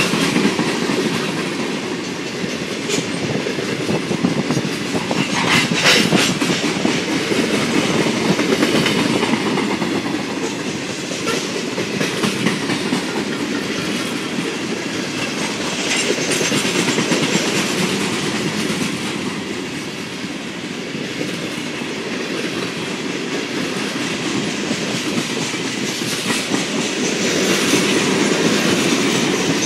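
Loaded coal hopper cars of a freight train rolling past at speed: a steady rumble with the clickety-clack of wheels over rail joints. A few sharper metallic clanks stand out, about six seconds in and again later.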